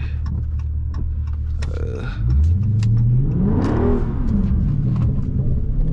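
Dodge Charger Scat Pack's 392 Hemi V8 running at a steady low pitch, then revving up about two seconds in, its pitch rising and falling after that as the car accelerates. Scattered short clicks and knocks sound over the engine.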